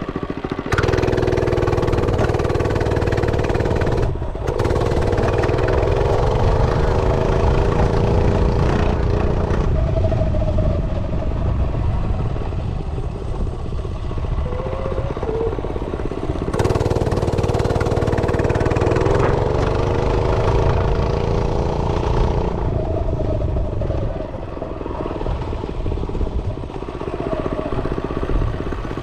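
Realtree RT100 minibike's small single-cylinder engine running under throttle while riding, its pitch rising and easing with the throttle. The throttle briefly chops off about four seconds in and again around sixteen seconds, then the engine pulls again.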